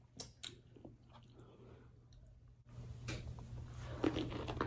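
Close-up chewing of a pickle coated in cotton candy: two sharp wet clicks in the first half second, then a quieter stretch, then denser chewing building from about three seconds in.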